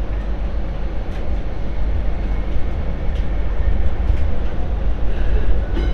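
MTR Light Rail Phase 4 light rail vehicle running along the track: a steady low rumble of wheels and traction with a few faint clicks.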